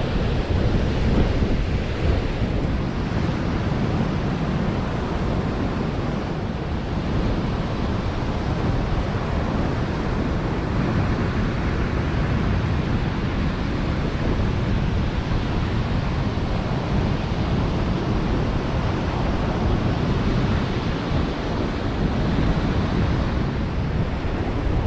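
Wind blowing across the microphone, with the steady rush of sea surf underneath.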